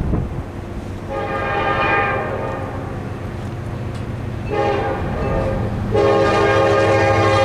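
Diesel freight locomotive's air horn sounding in blasts: one about a second in, another about four and a half seconds in, then a longer, louder one starting about six seconds in. Under it runs the steady drone of the approaching locomotive.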